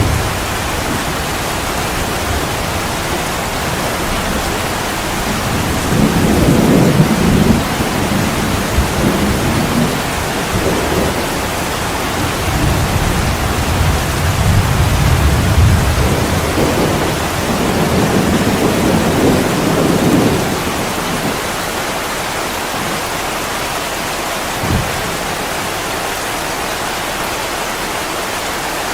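Heavy rain pouring on an attic window: a steady hiss, with low rolls of thunder swelling about six seconds in and again through the middle, and a single low thump near the end.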